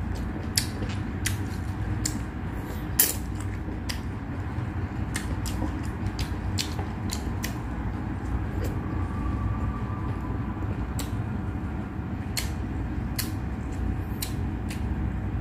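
Close-up eating sounds: wet chewing, lip smacks and finger licking, heard as irregular sharp clicks and smacks, with one louder smack about three seconds in. A steady low hum runs underneath.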